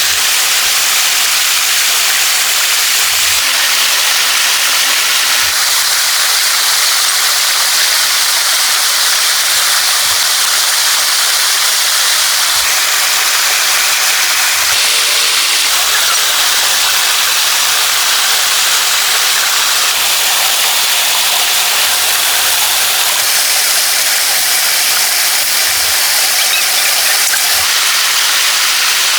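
A steady, loud hiss of noise with no breaks or distinct events.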